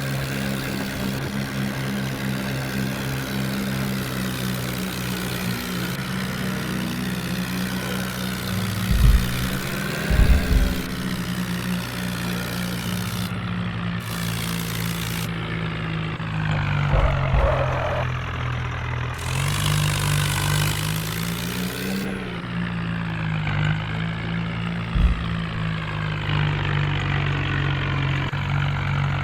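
Heavy diesel engine running steadily, its pitch rising and falling as it is revved under load, with a few low thumps and bursts of hiss.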